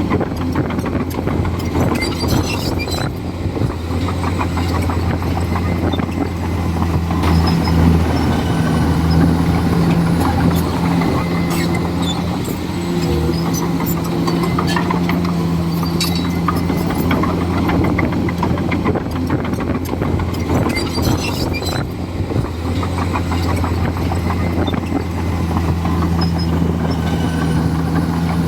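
Komatsu D41E crawler bulldozer's diesel engine running steadily under load, with frequent metallic clanks and clicks from the tracks and blade.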